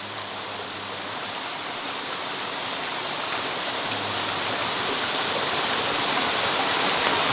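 Steady rushing noise like running water, slowly growing louder.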